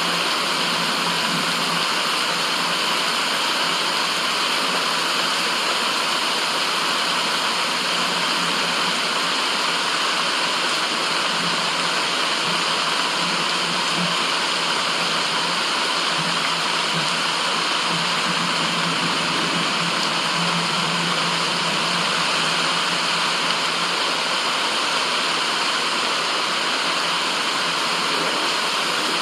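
Steady white noise: an even, unchanging rushing hiss with very little low end.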